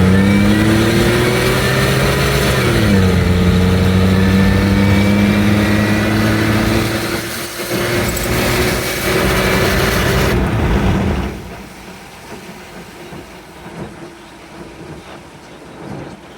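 2002 Nissan Xterra's supercharged 3.3-litre V6 under full-throttle acceleration through a straight-pipe exhaust, with a high supercharger whine over the engine note. The pitch climbs, drops at an upshift about three seconds in, then climbs again until the throttle lifts around eleven seconds in and the sound falls away to a quieter cruise.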